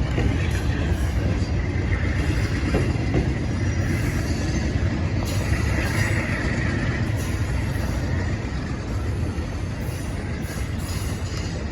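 A train running past: a steady rumble that eases off a little near the end, with wind buffeting the microphone.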